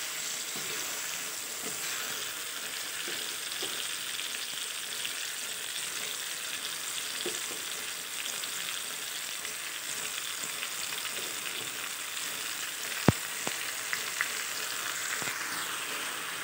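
Ash gourd chunks sizzling steadily in hot oil in an iron kadai, stirred with a wooden spatula as chopped lai shak (mustard greens) goes in on top. Late on comes one sharp knock, followed by a few lighter taps.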